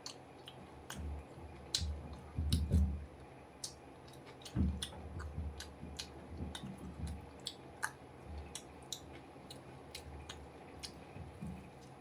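A person chewing food with mouth open, wet smacking clicks and soft low thuds coming irregularly, several a second at times, with denser bouts of chewing about two seconds in and again near the middle.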